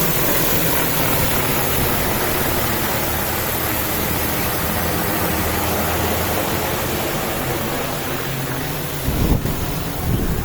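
DJI Agras T50 agricultural spraying drone's rotors running loudly at takeoff, a steady rushing drone over a low hum that slowly grows quieter as it climbs away. Wind buffets the microphone a few times near the end.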